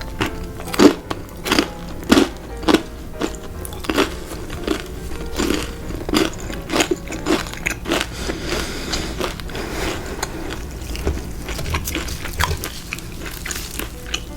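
Close-miked crunchy bites and chewing of crispy fried food: a dozen or so sharp, irregular crunches that give way to softer chewing after about eight seconds. Quiet background music plays underneath.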